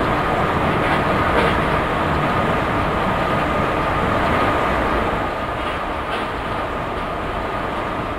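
Train-simulator sound of an ICE 1 high-speed trainset running at speed: a steady rushing rolling noise with a constant high whine and a few faint clicks, a little quieter from about five seconds in.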